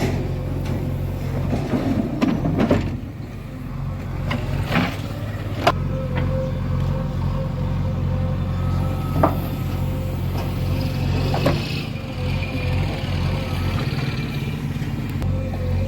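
Diesel engine of heavy farm or construction machinery running steadily, with a handful of sharp knocks scattered through it.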